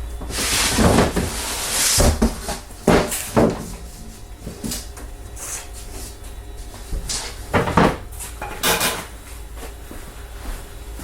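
Things being handled and set down on a workbench: several irregular knocks and bumps, with longer scraping noises in the first two seconds.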